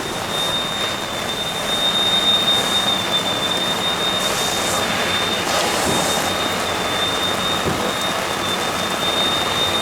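Steady rain-like rushing hiss of fire-hose water spray and burning at a large fire, swelling briefly about four to six seconds in, with a thin steady high-pitched tone over it.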